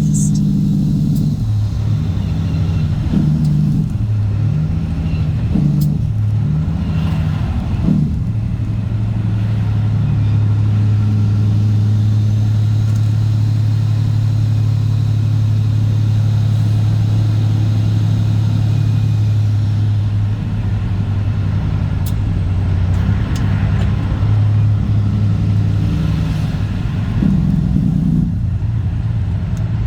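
Straight-piped Cat C15 ACERT diesel in a Kenworth W900, running on the road. The engine note steps up and down in pitch over the first several seconds, holds one steady pitch through the middle, and changes again near the end.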